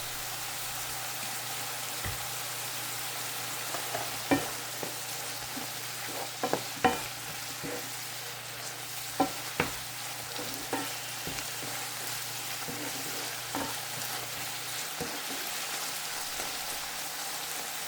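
A stir-fry of oyster mushrooms and onions sizzling steadily in a pan, with a utensil stirring it and knocking against the pan in scattered sharp taps.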